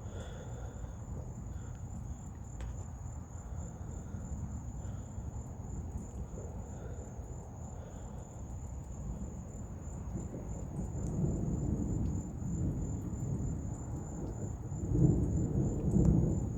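Thunder rumbling, building about two-thirds of the way in and loudest near the end, over a steady high trill of insects.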